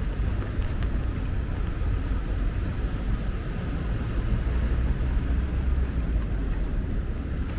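Rainy city street ambience: a steady low rumble of traffic under an even hiss, with a few faint clicks.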